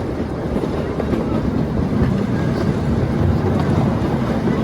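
Steady running rumble of a ride-on Christmas train heard from aboard, with a low steady hum coming in about halfway through.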